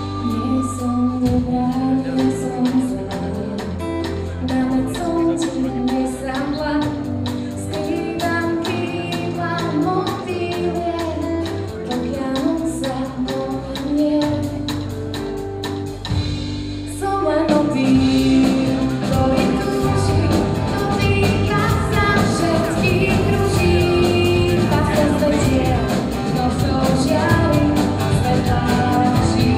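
A female singer performing a song live with a band and drums; the band drops back briefly and then comes in fuller and louder about seventeen seconds in.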